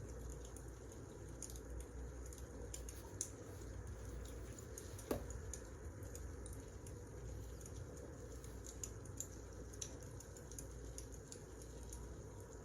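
Wood fire crackling: a steady low rumble with irregular sharp pops and snaps, the loudest about five seconds in.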